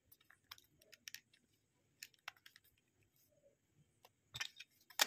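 Light, irregular clicks and taps of a small screwdriver and screws on a mobile phone's plastic housing as its case screws are put back in, with a few louder clicks near the end.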